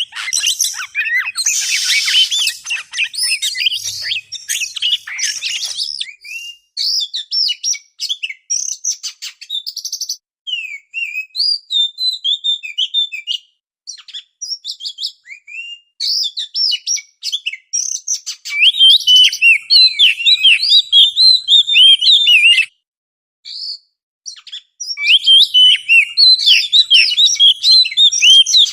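Oriental magpie-robin (kacer) singing a varied run of clear whistles, quick chattering notes and up-and-down glides, broken by a pause of a second or two about three-quarters of the way through.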